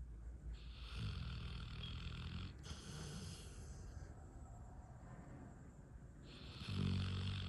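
Dog snoring: two long snores several seconds apart, each a low rumble with a breathy hiss, the second starting near the end.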